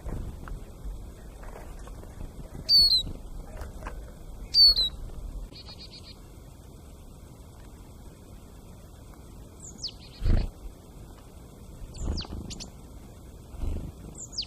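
Bird calls: two loud, sharp notes sliding down in pitch about two seconds apart, then a short buzzy note and several fainter downward-sliding calls later on. A few dull low knocks are heard among them, the loudest about ten seconds in.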